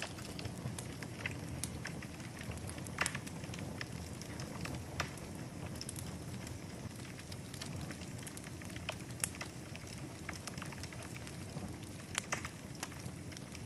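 Wood fire in a fireplace burning with a steady low rumble, crackling throughout, with a few louder pops about 3 and 5 seconds in and again near the end.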